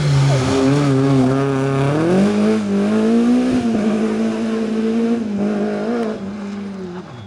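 Rally car engine under hard load on a special stage. Its pitch holds low, climbs about two seconds in, then holds high, and the sound fades near the end as the car drives away.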